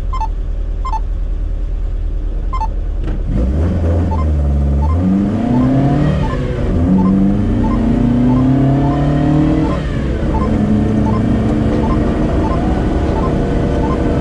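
Moskvich-408's four-cylinder engine, heard from inside the car, pulling away hard about three seconds in and revving up through the gears in rising sweeps, with a shift near the end before it settles to steady running. A few sharp ticks come before the launch, and a faint regular ticking runs under the engine.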